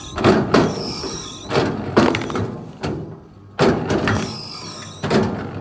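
A series of loud, heavy knocks, roughly two a second at uneven spacing. Each is followed by a short ring with a high, falling metallic tone.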